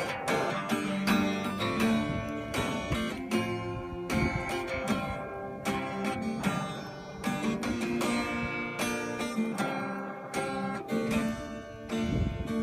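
Acoustic guitar being strummed and picked through chord changes, with no singing.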